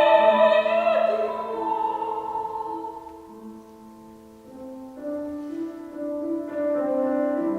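A soprano holding a high note with vibrato, which fades after about a second into the piano accompaniment alone. The piano grows quiet in the middle and builds again near the end.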